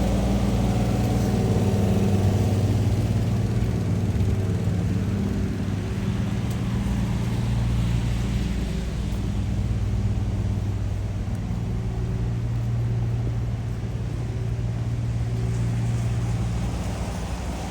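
Steady low engine hum with a faint hiss of city noise behind it.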